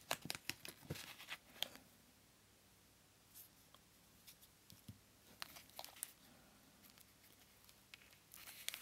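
Paper and card being handled: a cluster of faint rustles and small clicks in the first couple of seconds, then only an odd soft tick over near silence.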